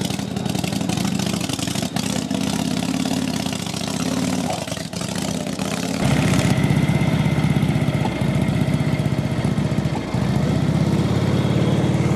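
Antique motorcycle engine running near idle, getting louder about halfway through.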